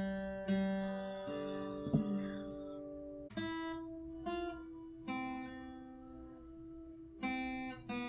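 Acoustic guitar played slowly by a beginner practising: about seven single plucked notes and chords, spaced apart, each left to ring and fade before the next.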